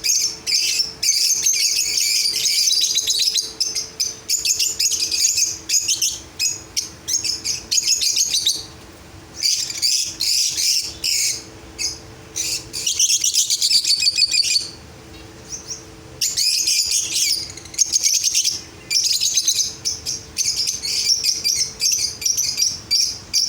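A flock of small cage birds in an aviary chirping rapidly and continuously, with brief lulls twice, over a faint steady hum.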